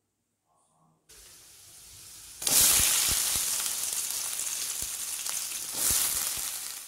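Oil sizzling in a metal kadai: faint at first around frying urad dal, then suddenly much louder once chopped shallots go into the hot oil, with scattered pops and spatters.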